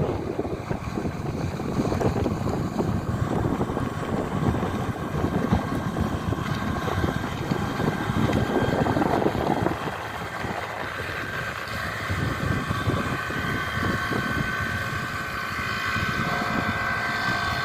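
Speedboat engine running, with wind and water rush; about ten seconds in, a steady high engine whine comes up and holds.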